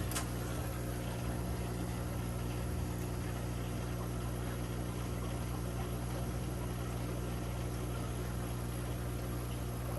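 Steady electrical hum of aquarium equipment, an air or water pump, running evenly over a faint constant hiss.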